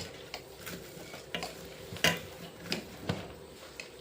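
Light, irregular clinks and taps of a plate and food being handled and mixed during a meal, about eight of them, the loudest about two seconds in.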